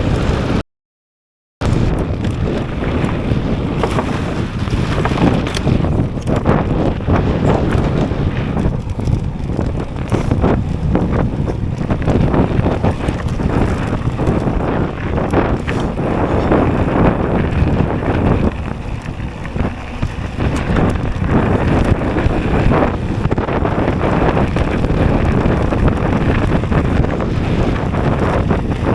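Strong wind buffeting the action camera's microphone, a dense low rumble with no steady tone. It starts with a short blip and a second of dead silence, then runs on, easing briefly about two-thirds of the way through.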